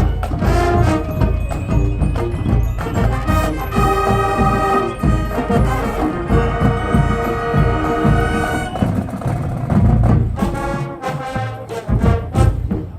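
High school marching band playing brass and drums. Full brass chords are held for several seconds in the middle, over steady drum hits, then give way to short punchy accents near the end.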